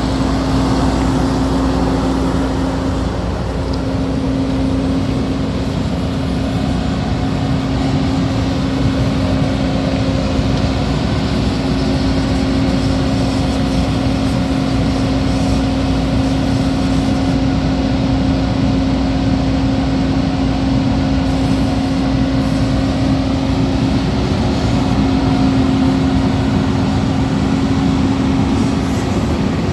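A 2011 Case IH Magnum 235 tractor's six-cylinder diesel engine running steadily, with a constant humming tone over the engine rumble.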